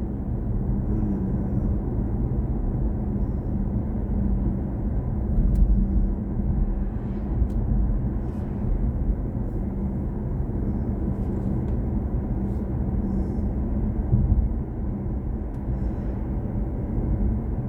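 Steady low road and tyre rumble of the BMW i4 M50 electric car being driven, with a faint steady hum. There is no engine sound, only road noise.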